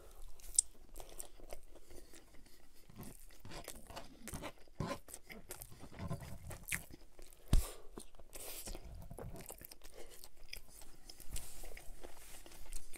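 Close-miked chewing of a bite of McDonald's Big Mac, with wet mouth clicks and smacks. A single sharp thump comes about seven and a half seconds in, and a napkin rubs over the mouth near the end.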